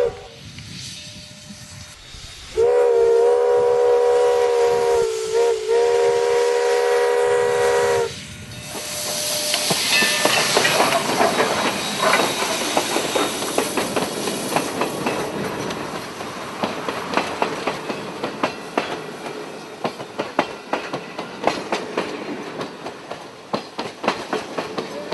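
Chime whistle of Canadian National 4-8-2 steam locomotive No. 6060, one long blast of several notes at once, broken briefly about halfway through. A loud rush of steam follows, then the clicking and rattling of the train rolling on the rails, slowly fading.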